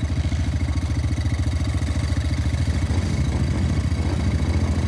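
ATV engine idling steadily, close by, with a fast even beat.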